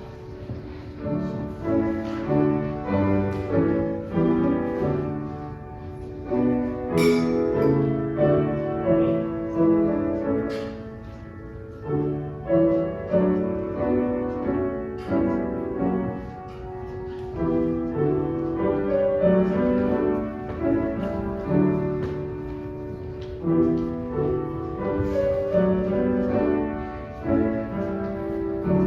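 Solo piano playing a classical-style piece, its notes struck and fading one after another.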